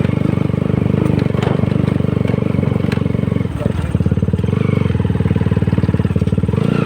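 Honda CBR150R's single-cylinder engine running under way, a steady, fast firing pulse. The engine note drops briefly about halfway through, then picks up again.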